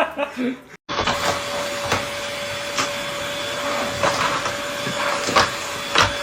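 Laughter cuts off, and after a brief gap a steady motor whir with a constant whine starts, like an electric appliance running. A few short voice sounds or knocks come over it.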